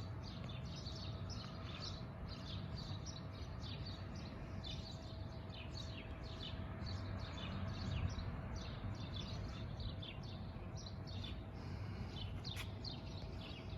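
Birds chirping: many short, high chirps packed closely together without pause, over a steady low background rumble.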